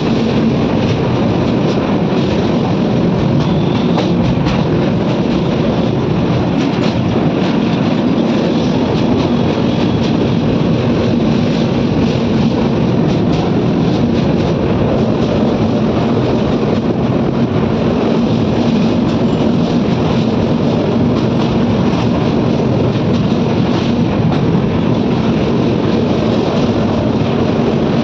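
Express passenger train running across a steel truss bridge, heard from the coach doorway: a loud, steady rumble of wheels on rail with a constant clatter and a low hum underneath.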